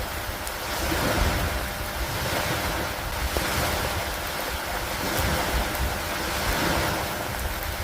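Storm ambience of steady rain and wind noise with a deep undertone, swelling and easing every two to three seconds.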